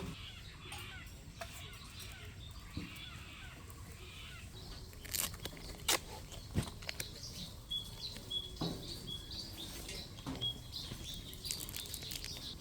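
Birds chirping and calling, with a series of short, even high notes repeated through the second half. A few sharp clicks come about midway.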